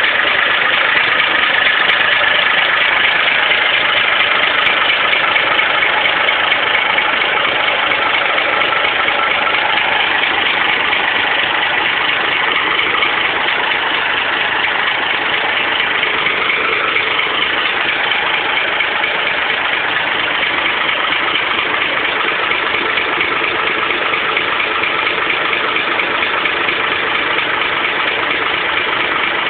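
Tractor fitted with a Saviem engine, running steadily at idle.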